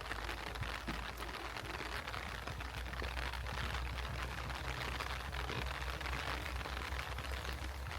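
Steady heavy rain falling, thick with the hits of individual drops.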